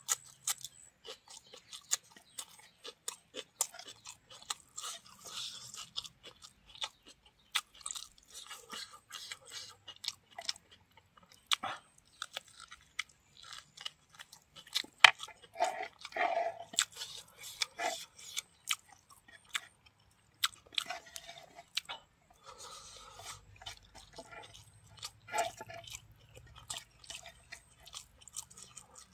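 Chewing and crunching of a person eating rice, green leaves and cooked buffalo meat by hand, with many irregular sharp little mouth clicks.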